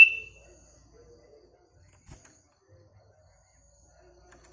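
Sooty-headed bulbul (kutilang) giving one short call that slides down in pitch at the start, then faint low background sounds with a soft click about two seconds in.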